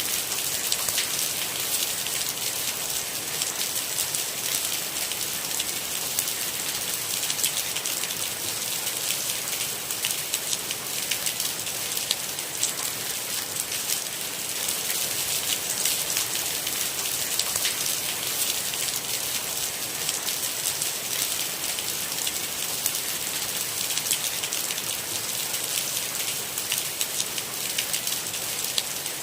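Steady, dense rain with a fine patter of individual drops hitting a surface, even throughout with no thunder.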